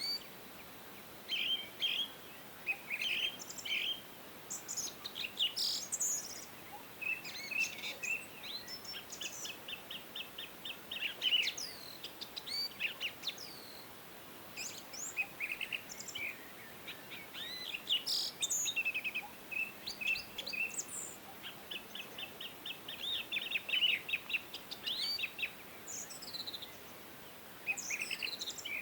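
Several songbirds singing and chirping, with overlapping short calls, whistles and fast trills of rapidly repeated notes, over a faint steady hiss.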